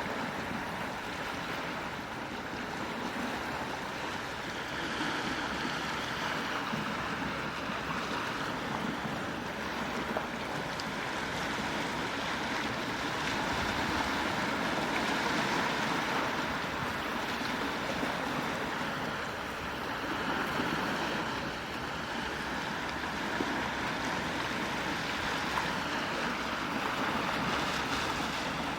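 Gentle sea waves washing on the shore, a steady wash that slowly swells and ebbs.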